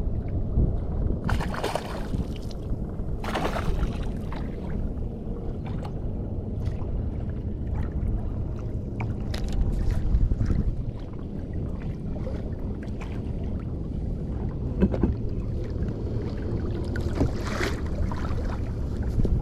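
Water sloshing around a fishing kayak's hull, with steady low wind rumble on the microphone and a few brief splashes.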